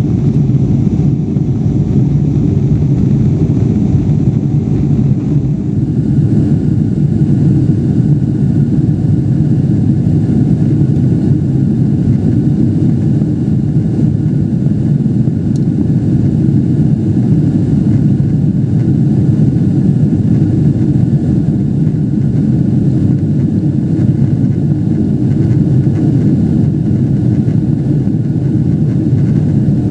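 Steady loud rumble of a Boeing 777's jet engines and airflow inside the passenger cabin, with faint steady higher tones joining about six seconds in.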